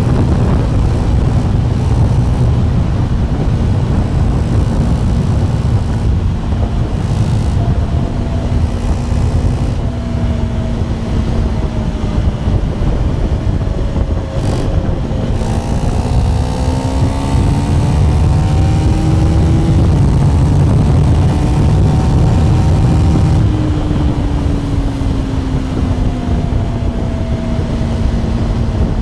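KTM 390 Duke Gen 3's single-cylinder engine on the move under heavy wind rush, its pitch climbing steadily as it accelerates about halfway through, then falling away as it eases off.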